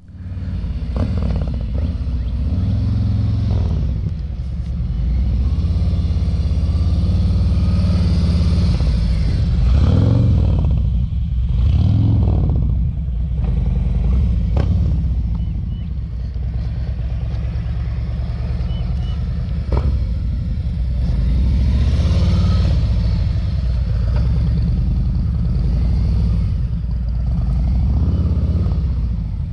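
Motorcycle engine running at low revs, with a few brief rises in revs about ten, twelve and twenty-two seconds in.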